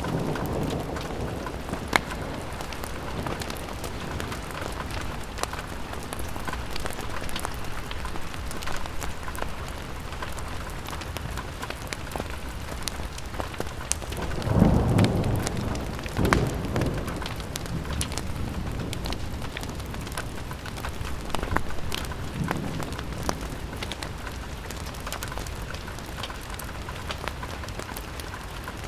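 Steady rain falling on a window, with scattered sharp drop ticks. A few low rumbles swell and fade, the strongest about halfway through, with smaller ones soon after and again later.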